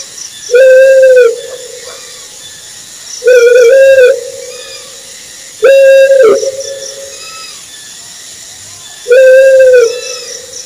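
Owl hooting: four clear, hollow hoots a few seconds apart, the second one a quick double note.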